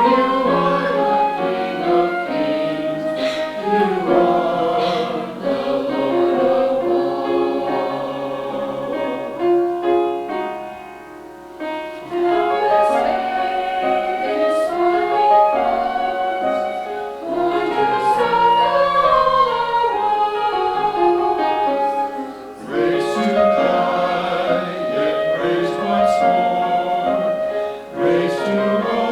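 Church choir singing, with a brief softer passage about a third of the way in.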